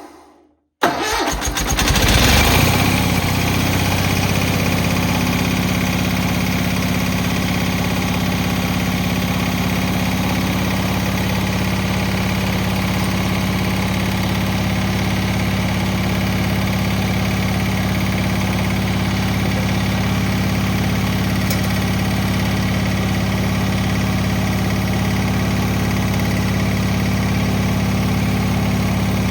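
Cub Cadet 782 garden tractor engine firing about a second in on gas poured down the carburetor, a cold start in sub-zero weather after the fuel pump lost its prime. It picks up briefly, then settles into a steady run.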